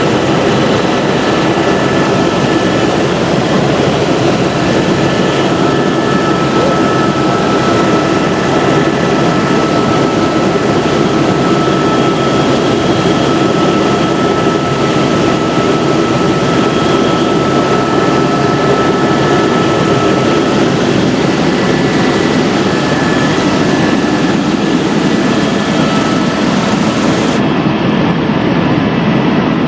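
Helicopter in flight: loud, steady engine and rotor noise that holds unchanged throughout.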